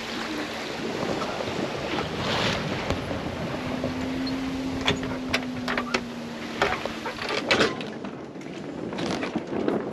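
Sailboat under sail: water rushing and splashing along the hull with wind on the microphone, and scattered sharp clicks and creaks. A faint steady hum comes in for a few seconds midway.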